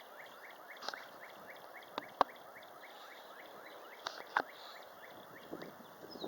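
Wind blowing outdoors, with an even string of short rising chirps about three a second and a few sharp clicks, the loudest about two seconds in.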